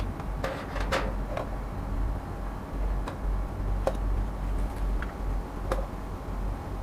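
Light clicks and taps, about six scattered through a few seconds, over a low steady rumble.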